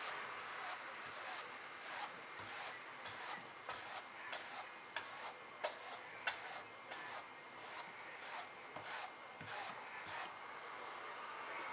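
Paintbrush rubbing against the painting surface in quick repeated strokes, about two a second, some ending in a sharper tap.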